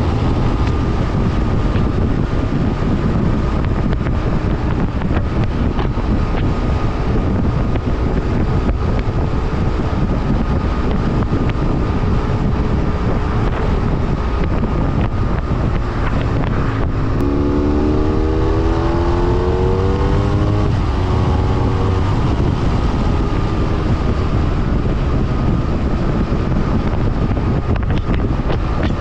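BMW F800R parallel-twin engine running while riding, under steady wind rush. About two-thirds of the way through, the engine note rises for a few seconds as the bike accelerates, then levels off.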